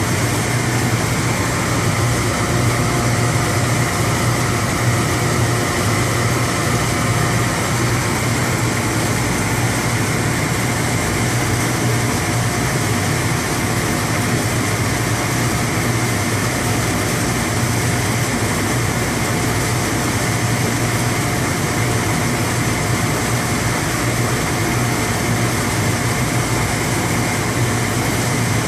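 Riverside Hydronics Primera 1600B gas boiler firing, its burner and combustion-air blower running with a steady, loud hum and rush.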